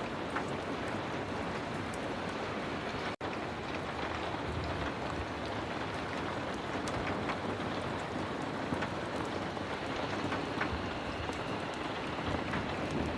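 Heavy rain falling steadily, a dense even hiss with scattered sharp ticks; the sound cuts out for an instant about three seconds in.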